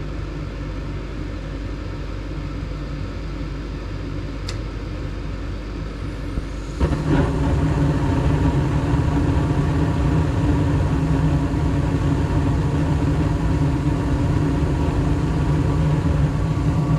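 Gas furnace running with its inducer motor humming steadily. About seven seconds in there is a click, then the burners light and the sound jumps louder into a steady rush of gas flame. The burners are firing at a manifold pressure of about 4 inches of water column, above the 3.5 it should be set for.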